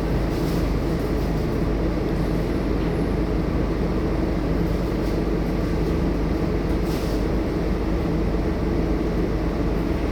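Scania K230UB city bus on the move, its five-cylinder diesel running with a steady low drone and road rumble, heard from inside the bus. A faint brief rattle comes about seven seconds in.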